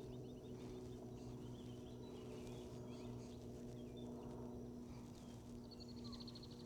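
Faint birdsong: short chirps and warbles, then a rapid trill near the end, over a steady low hum.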